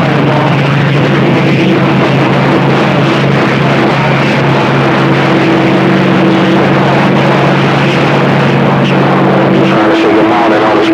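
CB radio receiver giving loud, steady static with humming tones from open carriers keyed up on the channel; a low hum cuts off near the end while a higher steady tone goes on.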